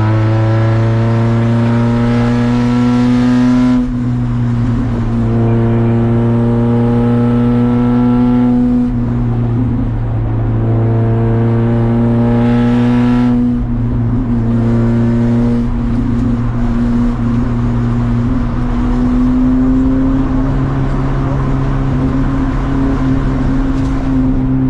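Race car engine pulling hard, its pitch climbing and dropping back at upshifts about every four to five seconds, then running at a steadier pitch in the second half.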